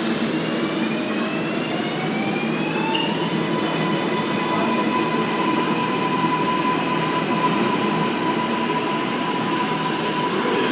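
New York City subway train running past a platform, its electric traction motors whining: the pitch rises for about three seconds as the train accelerates, then holds a steady high tone over the rumble of the cars.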